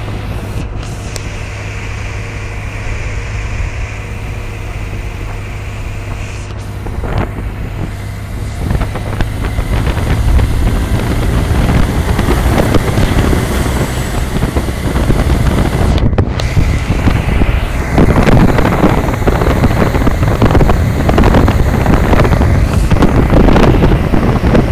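BMW R 1200 GSA boxer twin engine running on the move, with wind buffeting the microphone; the wind noise grows louder about a third of the way in and stays strong, as the bike picks up speed.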